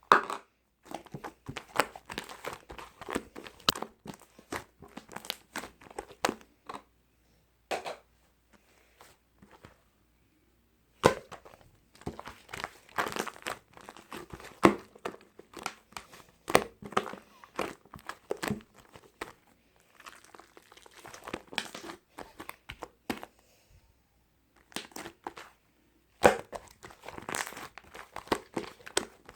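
Crinkling and crumpling handling noises in irregular crackly bursts, broken by two pauses of a few seconds.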